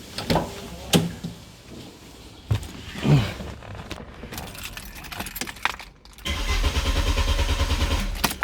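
A few sharp clicks and knocks, then the BMW E36's starter cranking the engine for about two seconds in an even, rapid rhythm without the engine catching, before cutting off. This is the no-start fault being tested.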